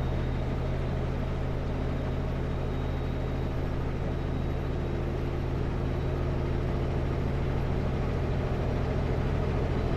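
Kenworth W900L semi truck's diesel engine running steadily at highway speed, heard from inside the cab as a constant low drone with tyre and road noise over it.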